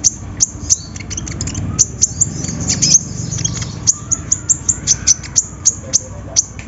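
Kolibri ninja (Van Hasselt's sunbird) calling in a fast run of sharp, very high chip notes, several a second, crowding into a quick flurry about halfway through. It is the kind of lively konin call used as a lure to set reluctant caged konin singing.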